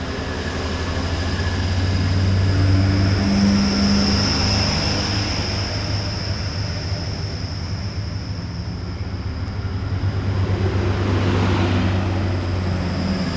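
Class 180 diesel multiple unit pulling away under power, its diesel engines running as a deep drone with a steady high whine over it. The sound swells about three seconds in, eases off, then swells again near the end as the train passes.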